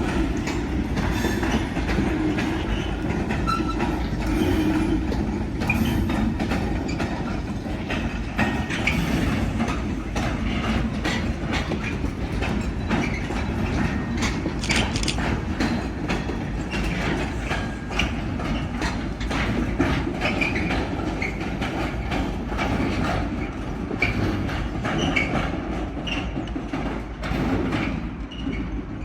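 Train passing, wheels clicking and clattering over the rail joints above a steady running rumble that eases slightly near the end.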